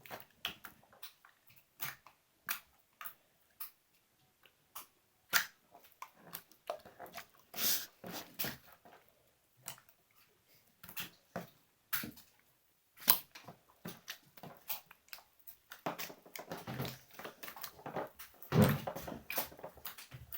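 Slime being squeezed and worked by hand, making irregular wet clicks and pops, with a denser, louder run of squishing near the end.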